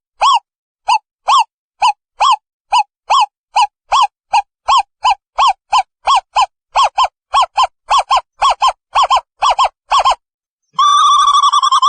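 Owl calling: a long series of short, pitched hoots, about two to three a second and slowly speeding up, then after a brief pause a continuous wavering trill near the end.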